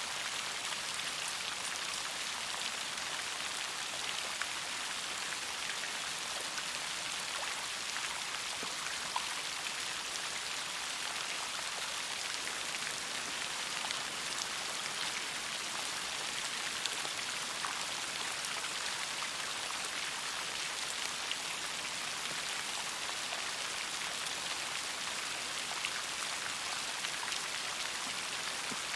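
Steady rain falling, a continuous hiss of many drops with scattered individual drop taps.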